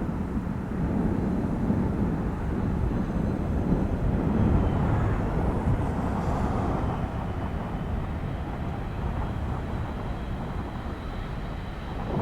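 Boeing 737 MAX 8's CFM LEAP-1B jet engines rumbling at takeoff power, a steady low roar that swells a little midway, with a faint thin whine above it.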